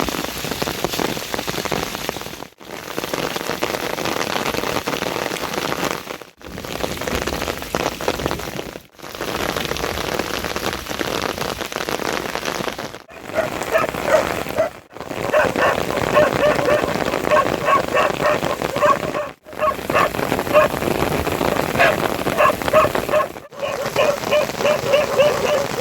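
Heavy rain falling steadily as a dense hiss, briefly cut off several times. From about halfway a rapid, repeated run of short pitched animal calls joins the rain.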